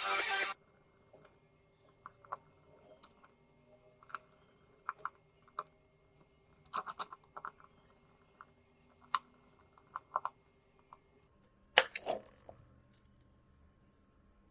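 Scattered light clicks and taps of small phone parts and repair tools being handled on a work surface, some in quick clusters, with a louder knock twice in quick succession near the end. A tail of electronic music cuts off about half a second in.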